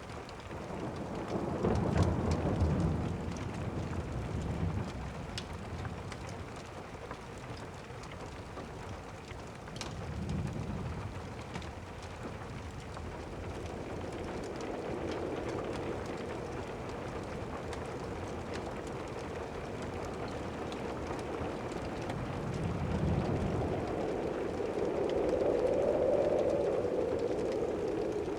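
Steady rain with rolling thunder rumbling three or four times: near the start, about a third of the way in, and again near the end. A few faint crackles of a wood fire sound over it.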